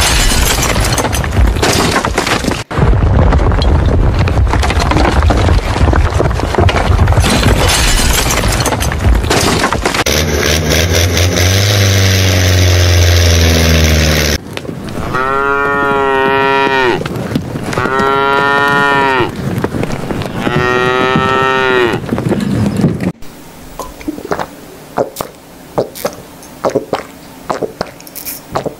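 Three long cow moos, each about two seconds, in the middle, after a stretch of loud machine-like noise and a motor whose pitch sweeps up and down; scattered clicks and knocks near the end.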